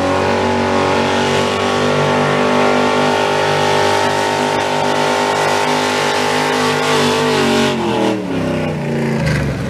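Pickup truck engine revving hard and holding high, steady revs under load while pulling the sled, then the revs drop away about eight seconds in.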